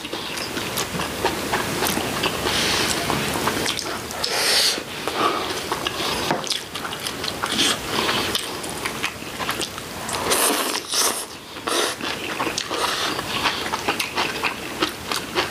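Close-up eating sounds: two people chewing and biting mouthfuls of rice and vegetable side dishes, with small clicks and taps of chopsticks against the dishes.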